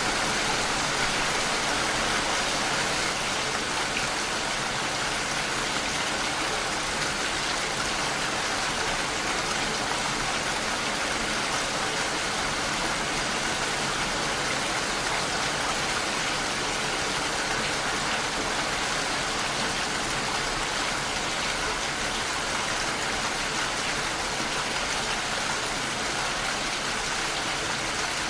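Steady rain falling against a window pane, a dense, even hiss of drops.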